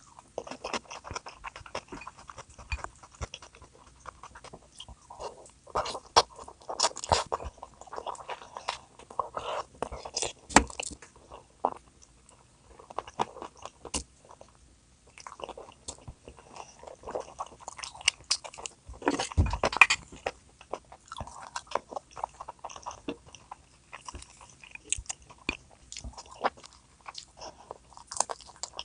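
A person biting and chewing food, with irregular crunches and clicks; one louder crunch about two-thirds of the way through.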